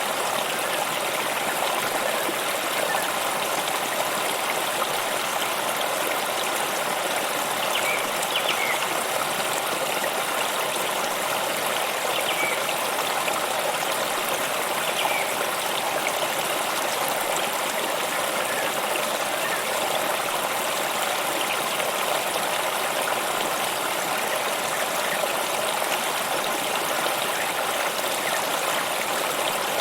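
Stream of water flowing and trickling steadily, with a few faint short chirps in the middle.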